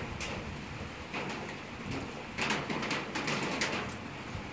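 Rain falling steadily around a fire burning in a metal tub, with several short sharp crackling bursts from the fire, the loudest about two and a half seconds in.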